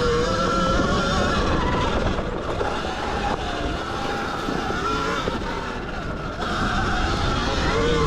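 Zero XB electric dirt bike's motor whining as it is ridden, its pitch gliding up and down with the throttle, over a steady rushing noise of wind and tyres in sand.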